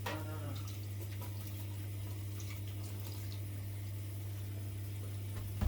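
Kitchen tap running into a sink as dishes are washed, with a few faint clicks, over a steady low hum.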